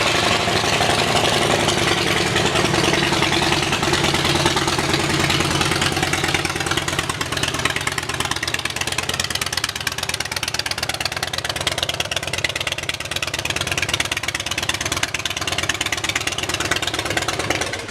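Harley-Davidson Dyna Street Bob's 96 cubic inch V-twin idling through a Vance & Hines aftermarket exhaust, just after a start; the idle settles a little lower over the first few seconds, then the engine stops at the end.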